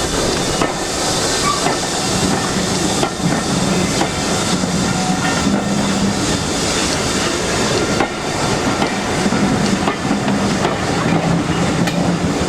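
A train running on the line: a steady rushing noise with a few sharp clicks and a low hum that comes and goes.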